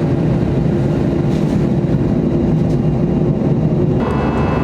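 Steady roar of jet engines heard inside the cabin of an Airbus A321 at takeoff, with a steady hum under it. About four seconds in the sound changes abruptly and higher steady tones come in.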